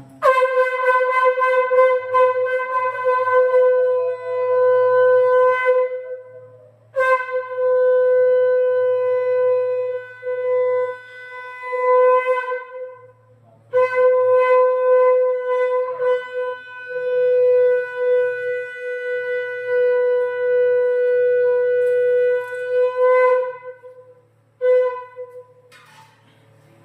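Conch shell (shankha) blown as a ritual call, one steady pitch held in three long blasts of about six to ten seconds each, followed by a couple of short blasts near the end.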